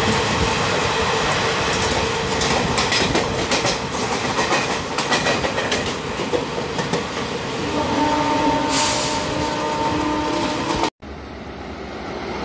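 Passenger train coaches rolling past at speed: a steady rumble and hiss of the wheels, with a run of rapid clacks over the rail joints. About eight seconds in a steady whine joins the rumble, and near eleven seconds the sound cuts off abruptly, coming back quieter.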